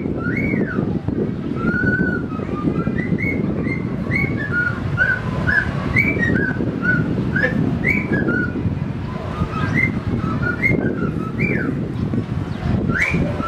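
A pet bird singing: a long run of short whistled chirps, each rising and falling, repeated one after another over a steady background noise.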